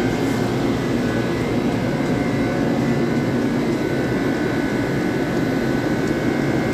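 N700A Shinkansen train starting to pull out of the platform: a steady hum of motors and running gear with a faint high whine held on top.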